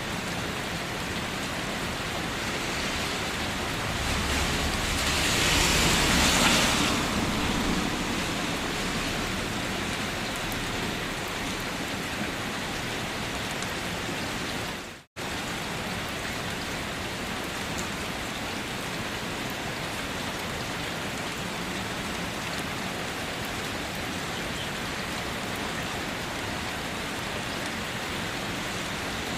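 Steady rain falling, an even hiss of drops. About four seconds in it swells louder for a few seconds, and about halfway through it cuts out for an instant before resuming.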